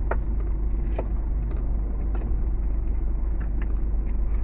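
Heavy truck's engine running with a steady low rumble, with a few faint short clicks.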